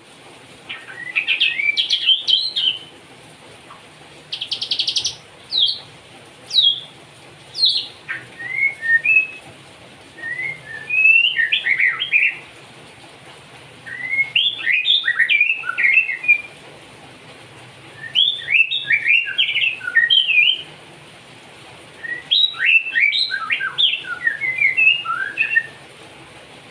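White-rumped shama singing loudly in repeated bursts of rapid, sliding whistled notes, each phrase one to three seconds long with short pauses between, including a brief buzzy trill near the start.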